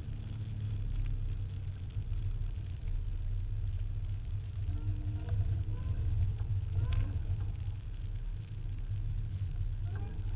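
Ford SVT Cobra Mustang's V8 running steadily while the car drives, heard from inside the cabin as a low rumble, with one brief click about seven seconds in.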